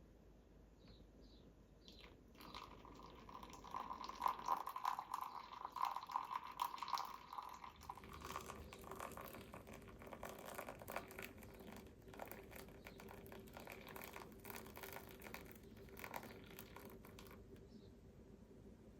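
Liquid pouring and trickling for a few seconds, then a faint steady hum with scattered light clicks.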